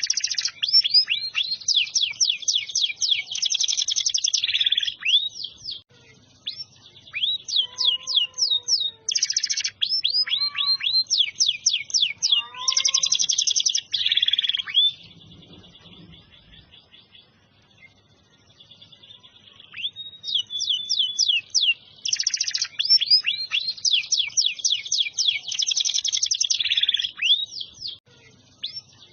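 Domestic canary singing long, fast, high trilled phrases with rolling runs of repeated notes; the song breaks off for a few seconds about halfway through, then resumes.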